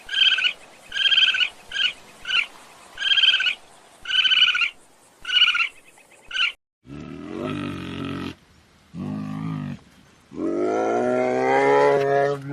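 Animal calls: a quick series of about nine short, high-pitched calls, then, after a sudden cut, a different animal giving three deep, drawn-out calls, the last the longest and loudest.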